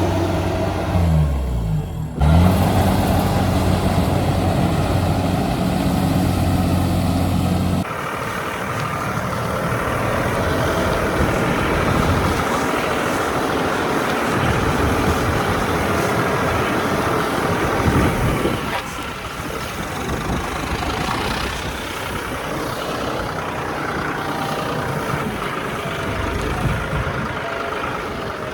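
Heavy farm diesel engine running, its pitch dipping and coming back up about a second in. About eight seconds in the sound changes abruptly to a noisier engine sound with no clear pitch.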